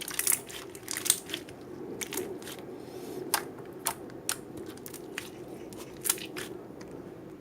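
Slime being squeezed and poked by hand, giving irregular sharp clicks and pops, about one to three a second, over a faint steady low hum.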